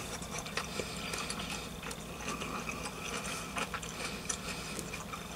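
A person chewing a forkful of pasta and sweet peppers, with scattered small clicks over a steady low room hum.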